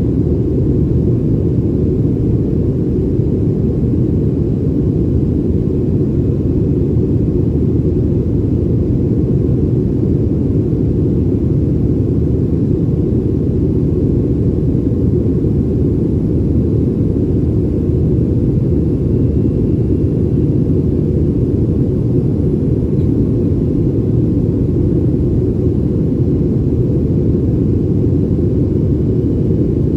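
Boeing 737 cabin noise in flight: the jet engines and the airflow over the fuselage make a steady low rumble with no change.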